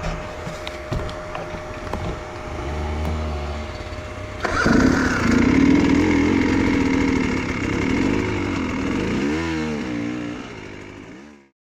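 Enduro motorcycle engine running, suddenly much louder about four and a half seconds in, then revving up and down before the sound cuts off abruptly near the end.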